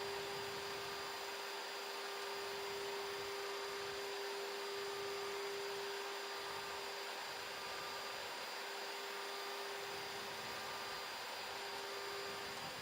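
Boeing 737 flight deck on final approach: a steady airflow hiss with a constant electrical hum running under it.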